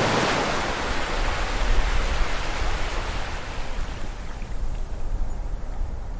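Ocean wave breaking on a beach: the rush of surf peaks as it crashes and fades slowly over several seconds as the water washes up, with a low rumble underneath.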